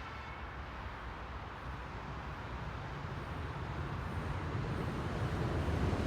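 Low rumble of an approaching vehicle, growing steadily louder.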